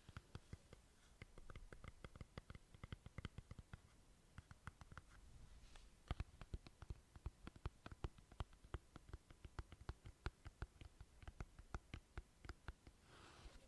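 Quiet ASMR mouth sounds close to the microphone: soft, wet clicks and smacks of tongue and lips, several a second in an uneven stream, with a short breath near the end.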